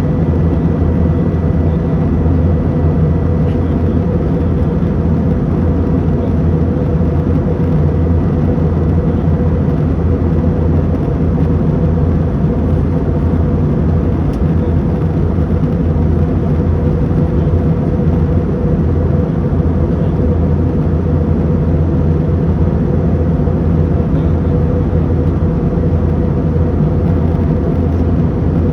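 Steady cabin drone of an airliner in flight: a constant low engine and propeller hum with a fainter tone above it, over even rushing air noise.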